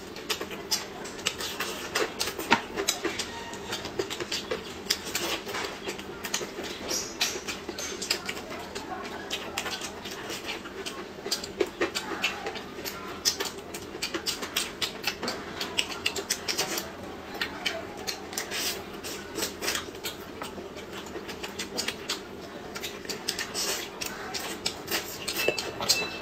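Close-miked chewing and lip-smacking of two people eating bread and chicken, a steady stream of many short mouth clicks and smacks.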